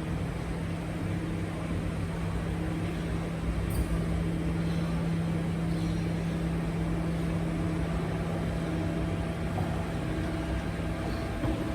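Garbage truck running with a steady low hum over street noise, with a brief click about four seconds in.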